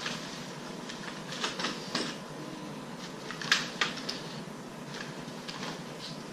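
Scattered plastic-and-metal clicks and knocks from a folding co-sleeper frame being handled as its top rails are pulled into their locked positions, the sharpest click a little past halfway.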